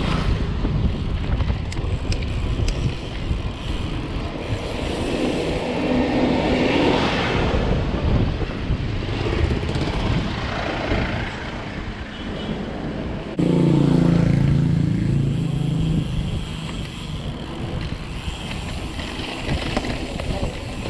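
Wind rush and rolling noise from a mountain bike ride, with a louder humming sound that starts suddenly about thirteen seconds in and lasts a couple of seconds.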